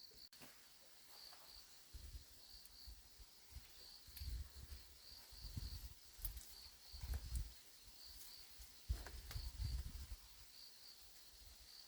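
Insects chirping in a steady high pulsing trill, with several low muffled bumps of handling noise.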